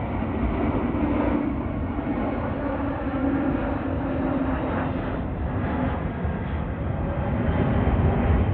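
Jet airliner engine noise: a steady rumble with a low hum, growing louder near the end.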